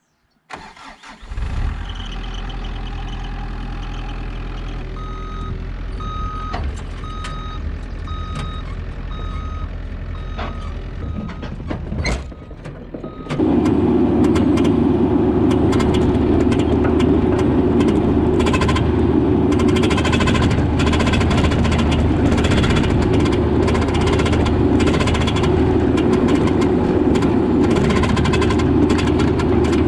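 Mini excavator engine running at a low idle while a backup alarm beeps steadily, about one and a half beeps a second. About halfway through the beeping stops and the engine gets much louder at a higher throttle, with a clattering edge.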